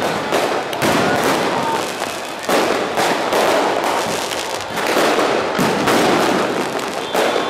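Aerial fireworks going off in rapid succession: a continuous barrage of sharp bangs and crackling bursts, with no pause.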